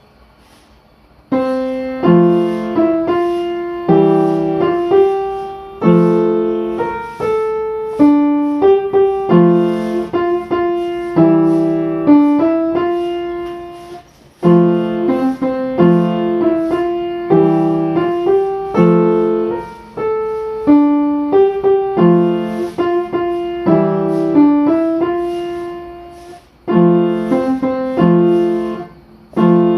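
Solo piano music: a calm melody of struck, ringing notes in repeating phrases, starting about a second in after a short pause.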